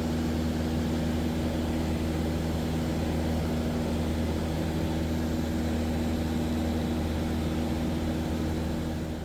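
Steady drone of a Cessna 177 Cardinal's piston engine and propeller in flight, an even low hum with wind noise over it.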